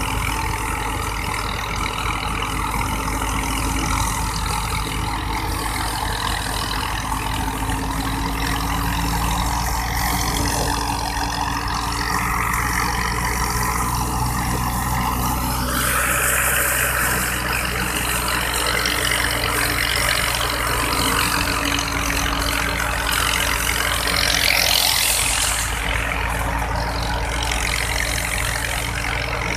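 Wheat thresher, driven by a tractor engine, running steadily. Louder rushes of hiss come about halfway through and again near the end.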